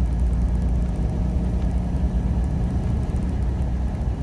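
Semi truck's diesel engine droning steadily with road noise, heard from inside the cab while driving.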